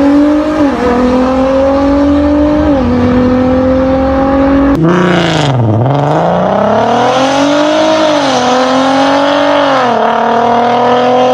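Six-cylinder car engine and exhaust accelerating hard through the gears, the pitch climbing steadily and dropping briefly at each upshift. About five seconds in the sound changes suddenly, the pitch dips low and then climbs again through two more upshifts.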